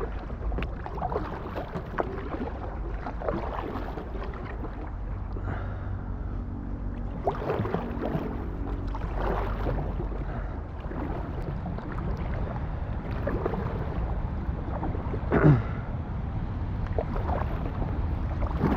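Paddle strokes dipping and splashing in river water from an inflatable kayak, every second or two, over a low wind rumble on the microphone. A louder splash comes about three-quarters of the way through.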